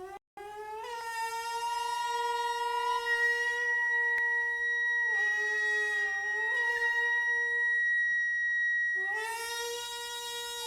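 Traditional Japanese wind instrument in a gagaku-style netori tuning prelude, playing long held notes and sliding up into them: once about a second in, and again after a dip around the middle and near the end.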